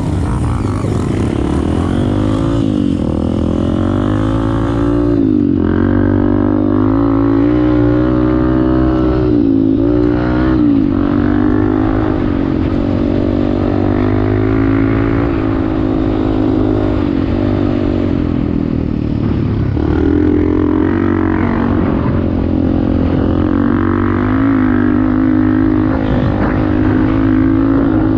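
Off-road motorcycle engine running under way, its pitch rising and falling again and again as the throttle is opened and eased.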